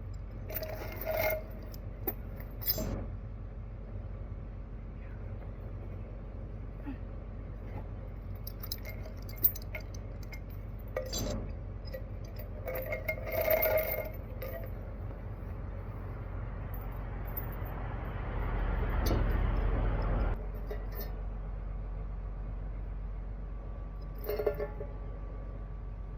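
Excavator's diesel engine running steadily, with short metallic clinks and scrapes every few seconds and a louder surge of engine and hydraulic noise about 18 seconds in that cuts off two seconds later.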